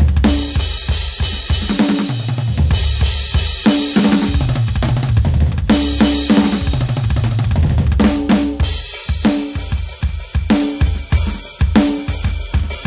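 Roland TD-17KVX electronic drum kit played, its sound module recorded direct through a mixer: bass drum, snare, toms and crash cymbals. The playing turns to fast, dense bass-drum and tom strokes in the second half.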